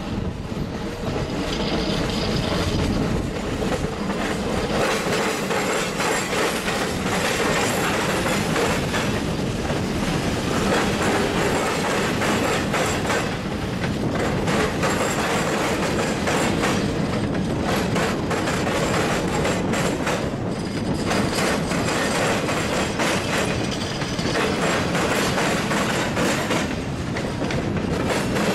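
Freight train of boxcars and covered hoppers rolling past at low speed, steel wheels rumbling and clicking over the rail joints.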